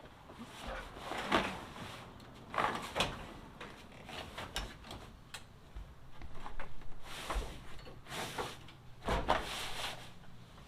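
A run of irregular clunks, scrapes and rustles from handling parts inside a truck cab, loudest about a second in, near three seconds in, and again around nine seconds in.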